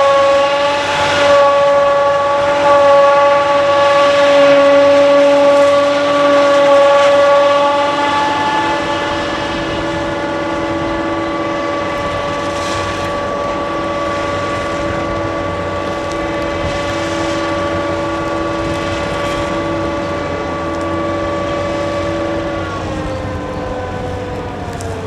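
Claas Jaguar 940 forage harvester running with a steady high whine made of several pitches. Near the end the whine drops in pitch as the machine winds down.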